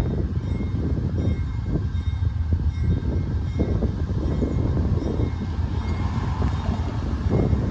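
Freight train of grain hopper cars rolling past: a steady low rumble with repeated clacks from the wheels.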